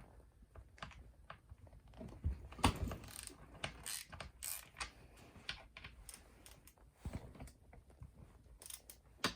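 Socket ratchet with an 8 mm socket clicking while screws are turned out of a chainsaw, with irregular knocks of the tool and metal parts.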